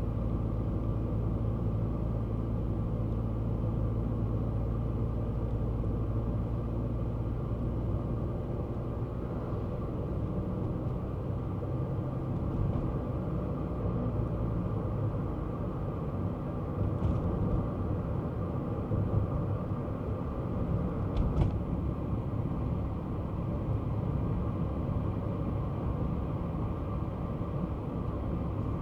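Kei car being driven: its small engine runs with a steady low hum over continuous road and tyre noise. The hum is even for the first several seconds, then turns more uneven, with a couple of faint ticks past the middle.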